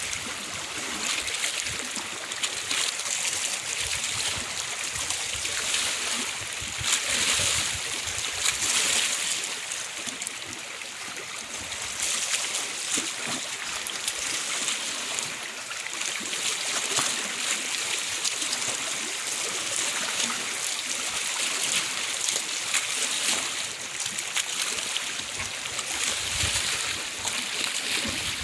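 Steady rush of flowing, splashing water, briefly louder about a quarter of the way in.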